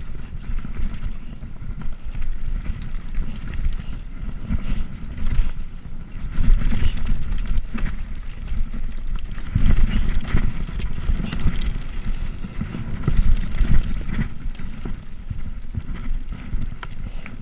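Wind buffeting the microphone of a camera riding on a moving bicycle: a gusty rumble that swells and eases, with faint ticks and rattles underneath.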